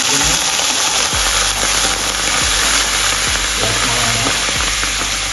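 White wine sizzling hard in a hot pan of sautéed onions, bell peppers and carrots, a loud, steady hiss as the liquid hits the hot pan.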